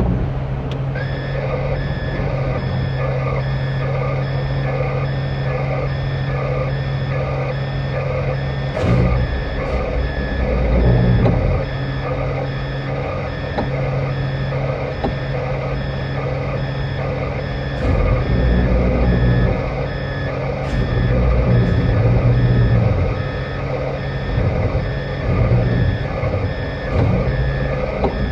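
Heavy truck backing up, its reversing alarm beeping steadily over the diesel engine, which revs up several times.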